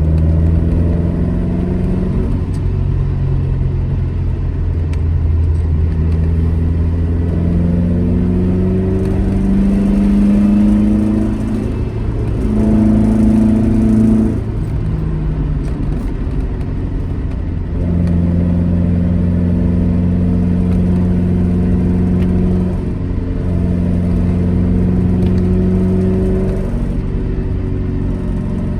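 Alfa Romeo GT Junior's twin-cam four-cylinder engine driving under load, over a steady low rumble. Its pitch climbs and then drops back several times, at about 2, 14, 23 and 27 seconds in, as it changes gear or lifts off, and it holds steady in between.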